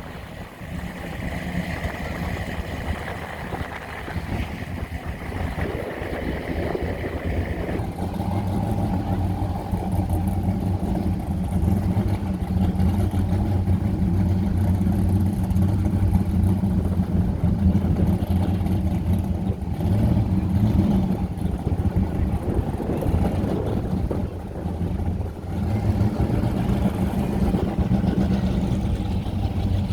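Car engines running as vehicles drive slowly past. A deep, steady engine note grows louder from about eight seconds in.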